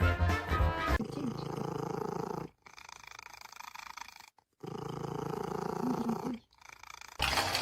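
A pet's low, rumbling growl in stretches of about a second and a half, broken by short pauses.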